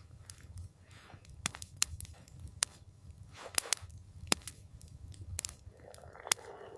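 Campfire crackling: irregular sharp pops and snaps over a low steady rumble, with a brief soft rush of noise near the end.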